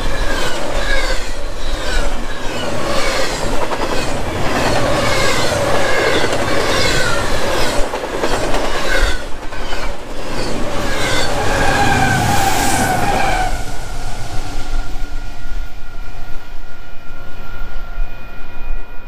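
Double-stack intermodal freight train rolling past close by: wheels clattering over the rail with short squeals repeating about twice a second. About two-thirds of the way through, the squeals give way to a steadier ringing tone as the last cars go by.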